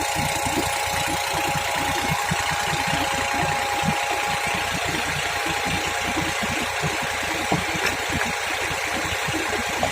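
Tractor's diesel engine running steadily, with a fast low pulsing and a thin steady tone above it.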